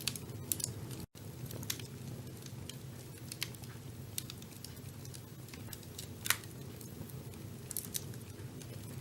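Wood fire burning in a fireplace: a steady low rumble with scattered sharp crackles and pops, the loudest about two-thirds of the way through. The sound drops out to silence for an instant about a second in.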